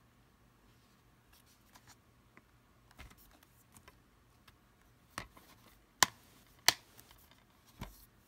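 Plastic DVD cases being handled: a few sharp clicks and taps over faint room tone, the two loudest close together in the second half.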